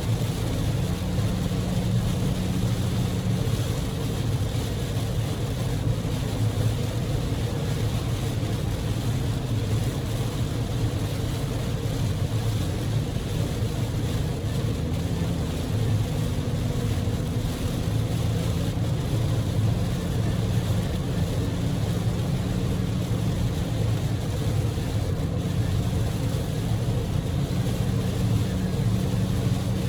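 Heavy typhoon rain on a Daihatsu Move L150S kei car at speed, heard from inside the cabin: a steady hiss of rain and tyre spray over the low drone of the car's engine and road noise.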